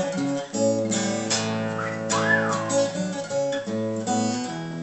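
Acoustic guitar strumming chords, with a fresh strum about once a second, as the accompaniment between sung lines. A brief rising-and-falling whistle-like sound comes about two seconds in.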